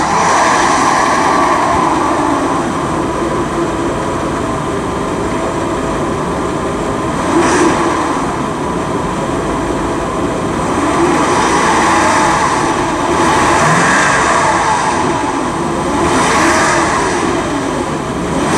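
Mercedes-Benz 380 SL's V8 engine running with the hood open, its sound rising and falling a few times.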